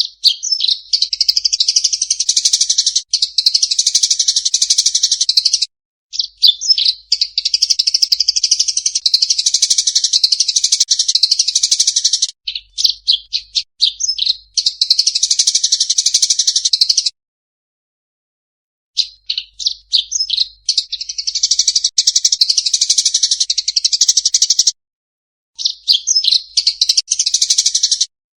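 Songbird singing long, rapid, high-pitched chattering song phrases lasting several seconds each, broken by abrupt short silences and a few choppy runs of quick separate notes: a 'masteran' song recording for training competition birds.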